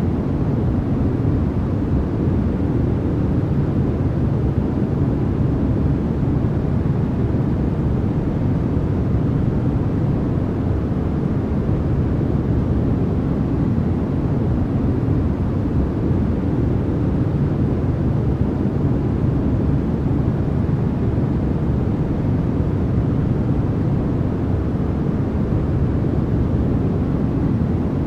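Continuous sleep noise sold as white noise: an even, unchanging rushing hiss, heavy in the low end and softer in the highs, with no breaks or events.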